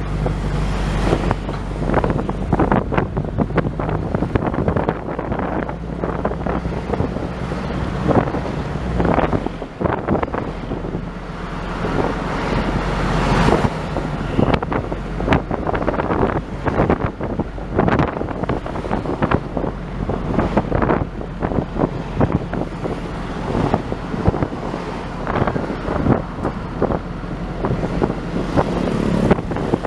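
A vehicle travelling along a road, its engine running steadily underneath, with wind buffeting the microphone in irregular gusts.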